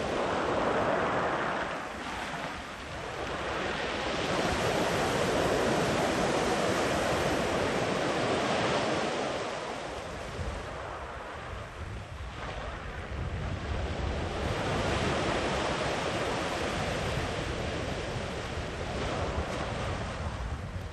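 Sea waves breaking and washing up a sandy beach, a continuous surf wash that swells and eases as successive waves roll in, loudest for a few seconds after the start and quieter just past the middle.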